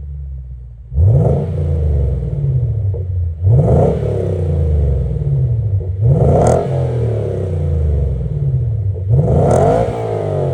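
Lexus IS500's 5.0-litre V8 idling and blipped through an ARK Performance GRiP aftermarket exhaust: four quick revs, each rising sharply and falling straight back to a deep idle.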